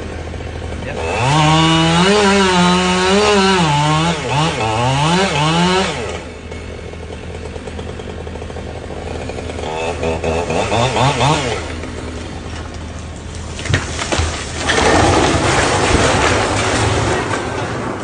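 Two-stroke chainsaw running at high revs, its pitch dipping and recovering as it cuts, in two spells. Near the end come a couple of sharp knocks and a loud crashing noise.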